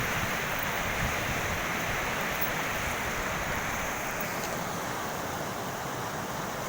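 A steady rushing noise that eases slightly about four and a half seconds in.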